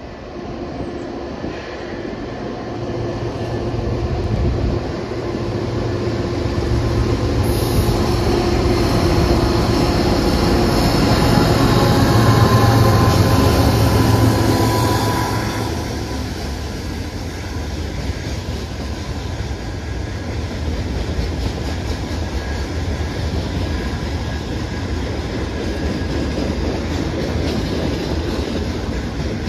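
Train passing: the diesel locomotives' engines build to a loud peak and go by about halfway through, then the rolling cars follow with a steady rumble and clatter of wheels on rail.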